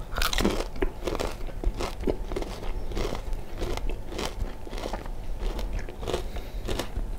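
Close-up chewing of a mouthful of breaded fried chicken dipped in gravy, with irregular wet crunches two or three times a second.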